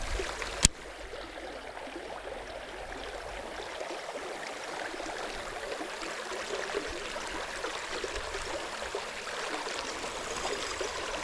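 Creek water running, a steady rushing babble, with one sharp click within the first second.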